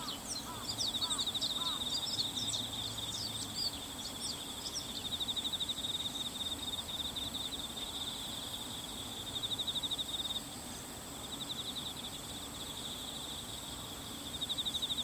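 Bull-headed shrike giving a quick run of sharp, high chattering notes for the first few seconds, then falling silent. This is not its loud autumn territorial call. Under it runs a steady insect trill that swells and fades every few seconds.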